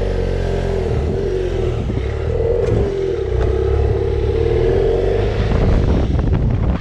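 BMW F800GS motorcycle's parallel-twin engine running as the bike gets under way, its pitch wavering slightly up and down.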